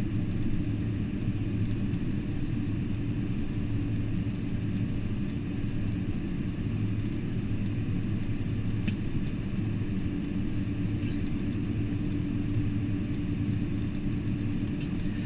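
Steady cabin rumble inside a Boeing 747-400 rolling on the ground after landing: engine and air-conditioning noise with a low, even hum.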